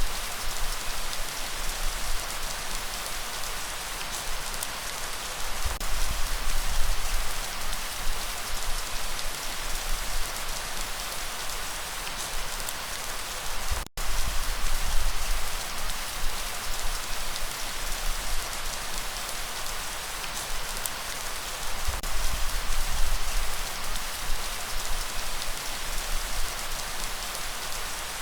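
Steady, heavy rainfall hissing, with a low rumble that swells now and then underneath. The sound cuts out for an instant about halfway through.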